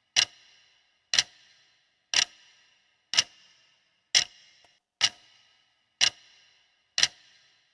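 Countdown-timer clock ticking sound effect: a sharp, ringing tick about once a second, eight in all, marking the time given to answer a quiz question.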